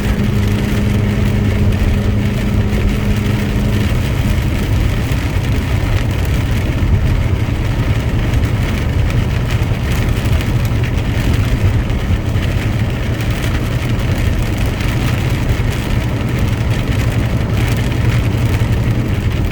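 Steady drone of a truck engine running, with a constant hiss of road or rain noise over it. A higher hum on top of the engine note stops about four seconds in.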